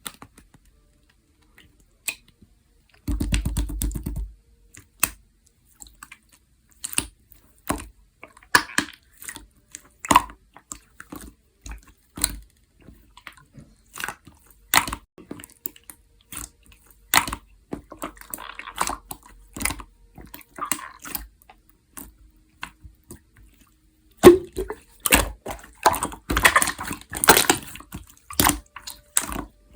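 Clear, jelly-textured slime being squished and pressed by hand, making wet clicks and pops, with a denser run of crackling near the end. A brief low rumble comes about three seconds in.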